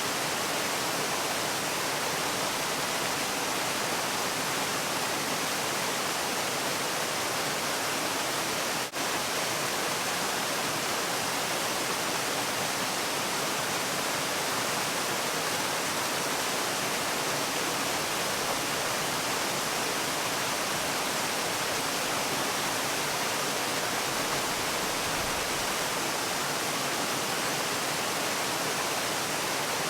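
Waterfall: falling water rushing in a steady, even hiss, with one brief drop in level about nine seconds in.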